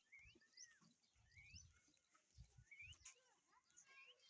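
Faint bird calls: short rising chirps repeating about every half second to a second, with a few lower, falling calls, over low rumbling.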